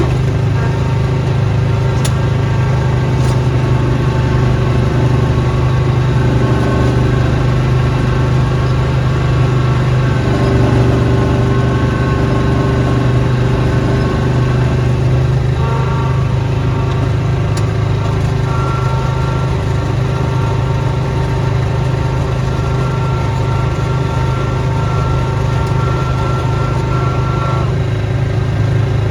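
Small petrol engine of a snowblowing machine running steadily, with a higher whine over its hum that drops out a second or so before the end.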